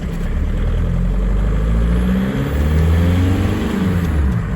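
Volkswagen 1.9 TDI (BEW) four-cylinder diesel engine pulling away soon after a cold start, its revs climbing steadily and then dropping back near the end.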